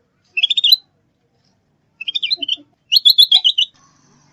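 A songbird calling in short phrases of rapid, high, chattering notes, three phrases with short pauses between.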